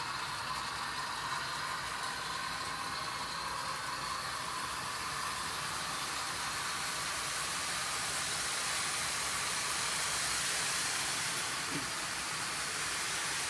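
Model trains running on a layout: a steady whirring hiss of motors and wheels on the rails, swelling a little about eight to eleven seconds in as a train passes close.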